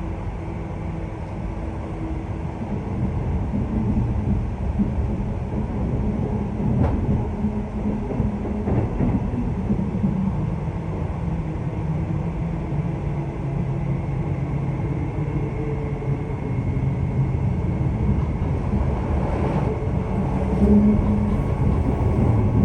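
Electric suburban passenger train running on the rails: a steady rumble of wheels on track with a low hum, and a couple of sharp knocks about seven and nine seconds in.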